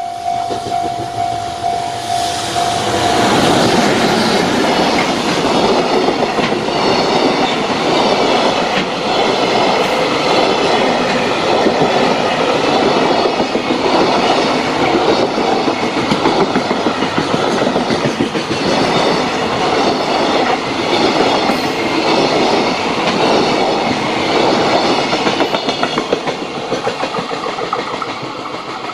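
Level-crossing warning bell ringing in steady pulses until about three seconds in. Then a JR Freight container train passes close by: an electric locomotive followed by a long string of container flat wagons, the wheels clattering over the rail joints. The train noise fades near the end as the last wagons go by.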